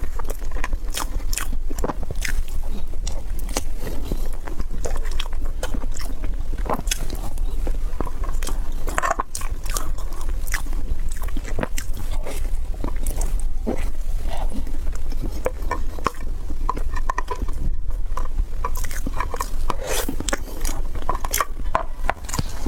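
A person chewing and biting into crunchy food close to the microphone, with many quick crackles and clicks, over a steady low rumble.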